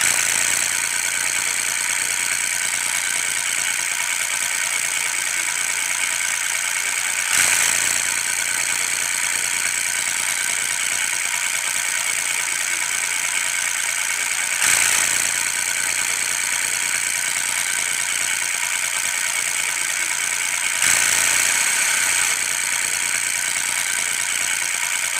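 Small DC hobby motor of a homemade matchbox toy truck running steadily with a high whine, getting briefly louder three times.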